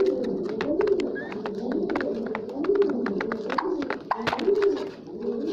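A flock of birds giving low, repeated, overlapping calls, with many sharp clicks and taps among them.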